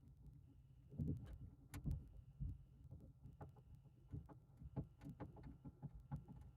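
Irregular knocks, taps and clicks of things being handled and set in place inside a truck-bed camper shell, the loudest about a second in and near two seconds. A faint high tone pulses on and off about once every second and a half.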